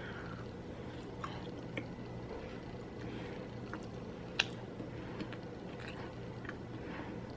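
A person chewing a bite of chocolate deep-fried Oreo: faint, scattered small mouth clicks and squishes over a low steady hum, with one sharper click a little over four seconds in.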